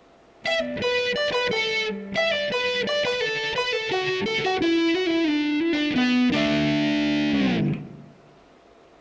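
Electric guitar playing a fast descending run of single notes, then a ringing D chord barred at the 7th fret about six seconds in, which falls in pitch before it is cut off near the end.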